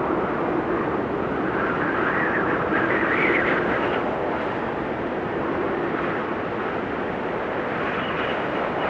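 Howling blizzard wind: a steady rush of noise whose pitch drifts up and down in gusts, one gust rising in pitch about three seconds in, then easing.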